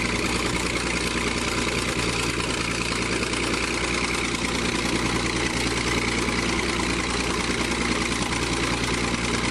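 Heavy engine running steadily at an even pitch, with no revving or impacts.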